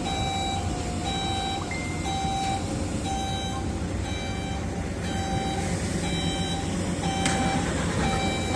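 Vehicle reversing alarm beeping steadily, about once a second, over a low engine rumble, with one short sharp knock about seven seconds in.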